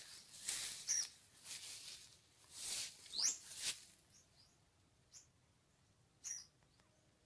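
Small birds chirping in short, high, rising calls, scattered through the orchard. In the first half there are also a few brief rustling bursts; the second half is quieter, with only two more chirps.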